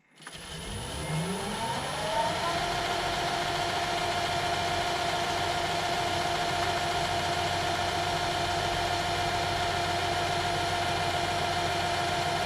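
Metal lathe starting up: its motor and spindle whine rises in pitch over about two seconds as it comes up to speed, then runs steadily with a constant whine.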